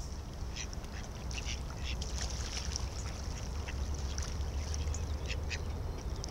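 A group of ducks quacking in short calls, several a second, as they crowd in to be fed bread. Wind rumbles steadily on the microphone underneath.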